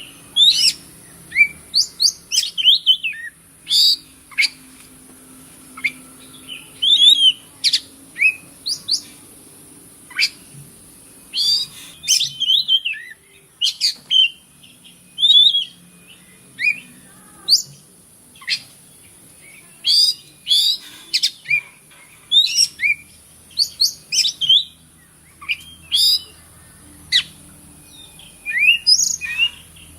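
Oriental magpie-robin (kacer) singing a fast, varied run of short whistles, chirps and sharp rising and falling notes, over a steady high hiss.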